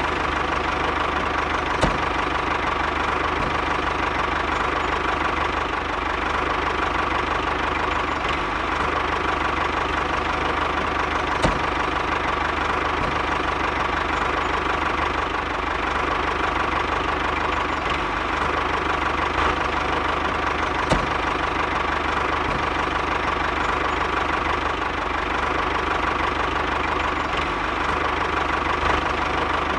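Small engine of a homemade mini tractor running steadily after starting, with a steady whine over it and a few single sharp clicks.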